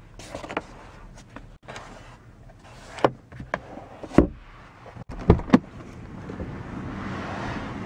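A string of sharp clicks and knocks, around ten of them, in and around the car. From about six seconds in, a steady rushing noise like wind grows louder.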